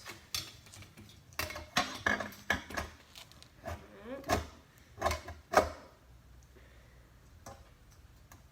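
Ceiling fan canopy knocking and rattling against its mounting bracket and screws as it is pushed up and worked into its slots: a string of sharp clacks and clatters for about six seconds, then they stop.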